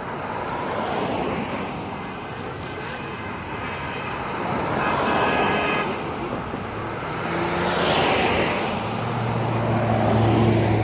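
Cars driving past with engine and road noise that swells and fades, loudest about eight seconds in. A steady low engine drone joins about nine seconds in.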